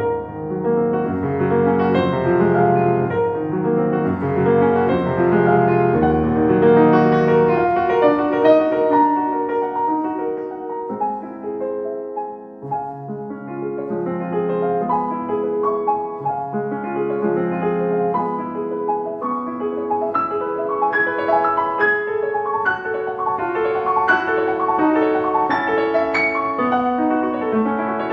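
Solo piano playing a slow, calm classical-style piece, quieter for a moment near the middle and then moving into busier, higher notes.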